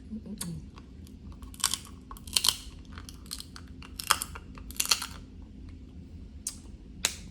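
Snow crab legs being eaten close to the microphone: a string of sharp cracks and clicks as the shells are broken and picked, with chewing in between.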